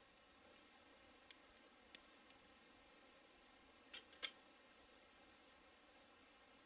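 A few faint, sharp clicks over near silence, with two louder clicks in quick succession about four seconds in.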